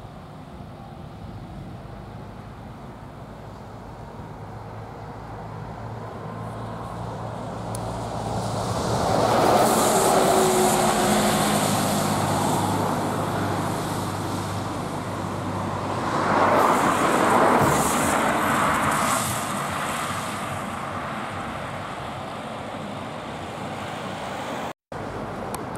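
A passing vehicle builds to a loud peak about nine seconds in and again around seventeen seconds, with a high hiss at both peaks. A short break in the sound comes near the end.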